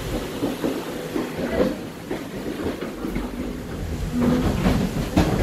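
Passenger train running, heard from inside the carriage: a steady low rumble with irregular clicks and rattles.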